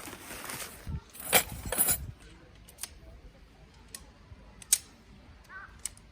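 Sharp clinks and knocks of small hard objects being handled, a loud cluster between one and two seconds in, then scattered single clicks.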